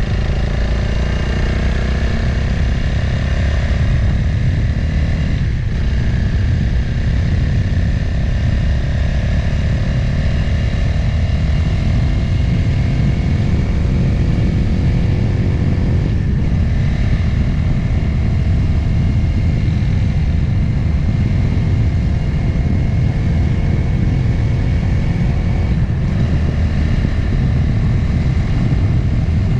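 Motorcycle riding sound recorded on board: the engine runs under way over a steady low rumble. Its note rises slowly and breaks briefly three times, about five, sixteen and twenty-six seconds in.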